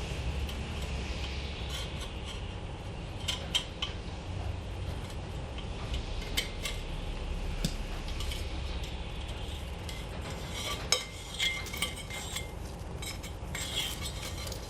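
Metal fire pit parts being handled: scattered light metallic clinks and taps, the sharpest about eleven seconds in, over a rustle of protective film being peeled off.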